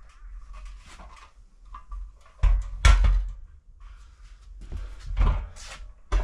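Knocks and thumps of a desk frame being handled and set down: two loud knocks about two and a half and three seconds in, then two lighter ones a couple of seconds later.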